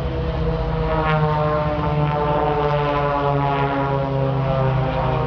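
Propeller-driven aerobatic display aircraft passing in flight, their engine drone steady and loud, with the pitch slowly falling as they go by.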